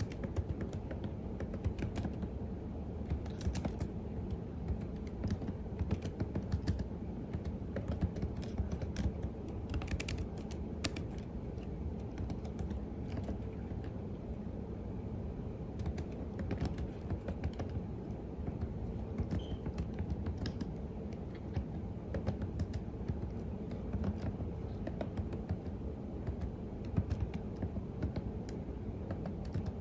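Typing on a computer keyboard: a continuous, irregular stream of key clicks over a steady low hum.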